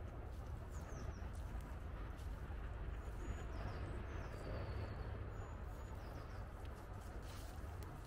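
Small birds calling faintly: a few short high chirps and one falling whistle, over a steady low rumble of background noise.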